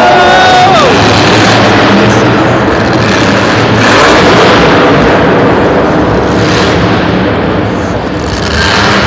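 Monster truck engine running hard at high revs, very loud and continuous, with surges in level about four seconds in and again near the end.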